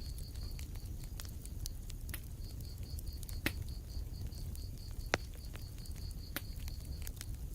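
Wood fire in a fireplace crackling: scattered sharp pops, the loudest about three and a half and five seconds in, over a low rumble of the flames. A high-pitched chirp pulses about five times a second alongside it, pausing briefly about two seconds in.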